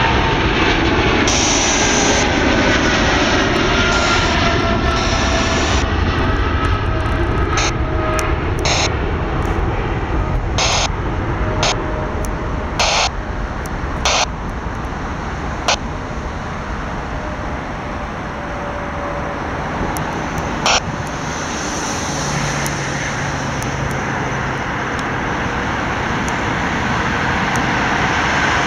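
Jet engines of a British Airways Boeing 777-200 at takeoff power, a loud steady rumble with a whine that glides down in pitch as the airliner moves away. A run of short sharp clicks comes through the middle.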